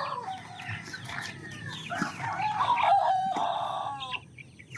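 A rooster crowing, one long call starting about two seconds in, over the clucking and short calls of other chickens.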